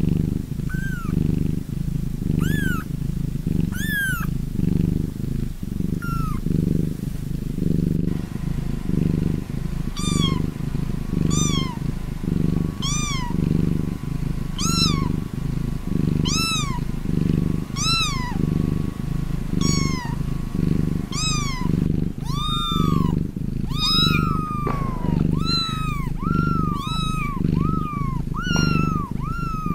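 A cat purring steadily in a slow, even rhythm, overlaid with short high-pitched mewing calls. The mews are sparse at first, come about once a second from roughly a quarter of the way in, and turn quicker and overlapping in the last quarter.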